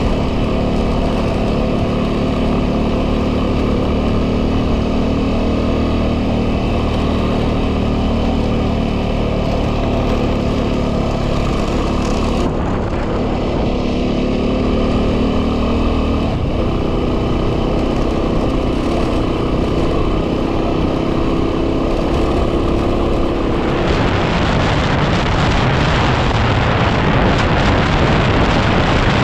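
Yamaha WR250R's single-cylinder four-stroke engine running at a steady cruise, its note shifting about twelve and sixteen seconds in. Near the end, heavy wind noise on the microphone swamps it.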